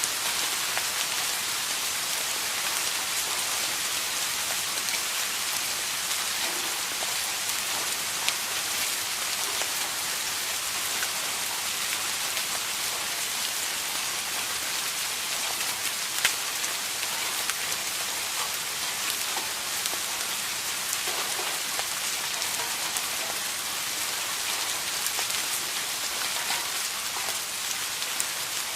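Steady rain falling on a surface, a continuous hiss with scattered individual drop ticks.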